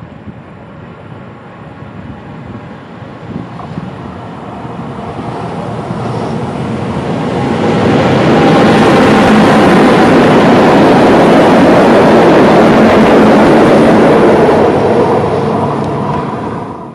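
Train of two E.652 electric locomotives with the Falco 2 diagnostic vehicle and a container wagon between them, passing on the line. Its wheel-on-rail rumble grows as it approaches, is loud for several seconds as it goes by with a steady whine running through it, and fades away near the end.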